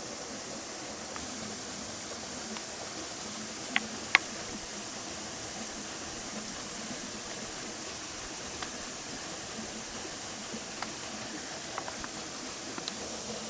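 Campfire burning: a steady hiss with scattered sharp pops and crackles, two loud pops close together about four seconds in.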